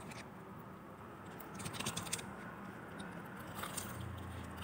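Biting and chewing crispy fried chicken, with bursts of crackly crunching about a second and a half in and again near the end.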